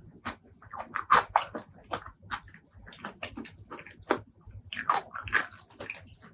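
Close-miked chewing and biting of spicy pork leg curry and rice: irregular wet smacks and crunches, louder about a second in and again around five seconds in.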